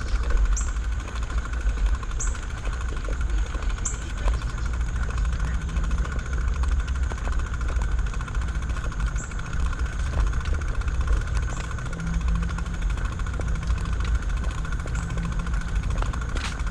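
Low rumble of a bicycle riding along a trail, with wind on the microphone. A steady high drone runs underneath, and a short, high, rising chirp repeats every second or two in the first few seconds.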